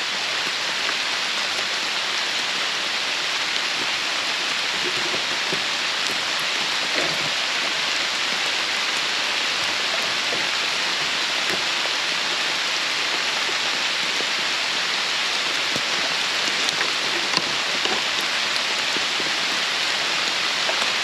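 Heavy rain falling steadily in a downpour, with a few sharp ticks now and then.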